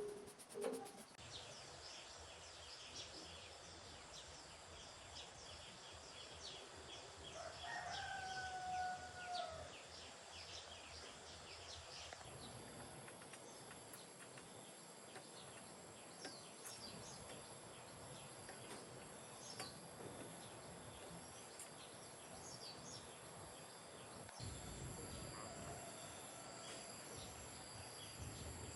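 Rural outdoor ambience: small birds chirp on and off, a rooster crows once about eight seconds in, and insects keep up a steady high drone.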